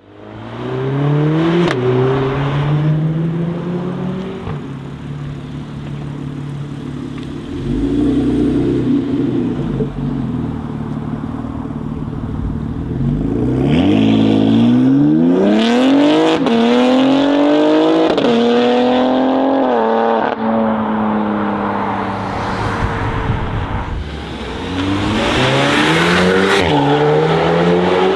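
BMW X3 M Competition's twin-turbo inline-six through a loud custom exhaust, accelerating hard several times. The engine pitch climbs, drops back at each upshift and climbs again, with a steadier running stretch in between.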